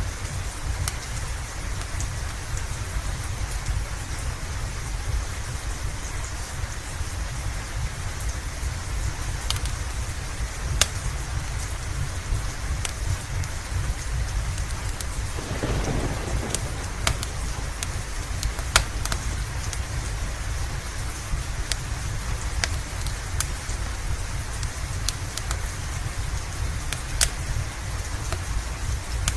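Steady rain with a deep continuous low rumble, dotted with scattered sharp pops and snaps from a crackling wood fire. A brief soft roll of distant thunder swells and fades about halfway through.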